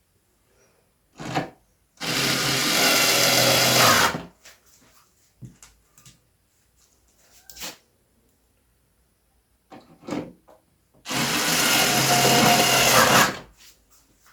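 Cordless electric screwdriver running twice, about two seconds each time, a steady motor whine driving screws, with small clicks of handling in between.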